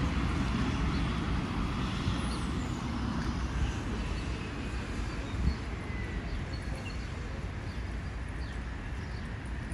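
Alstom Citadis 405 tram running, a steady low rumble that slowly fades, with a faint whine falling in pitch partway through.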